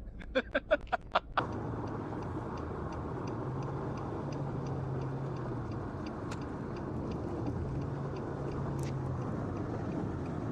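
A quick run of six short, loud beeps, then a vehicle running steadily with a low hum and road noise. Through it, a faint ticking about three times a second, like a turn signal.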